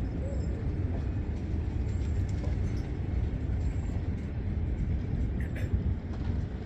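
Train in motion, heard as a steady low rumble, with a brief sharp rattle near the end.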